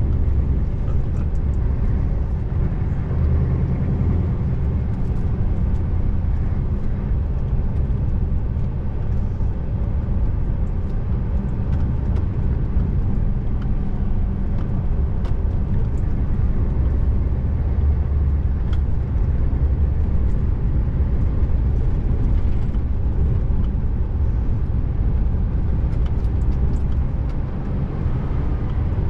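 Scania R590 tractor unit's 16-litre V8 diesel rumbling steadily while driving, its low drone a little heavier for a few seconds at the start and again about two-thirds of the way through.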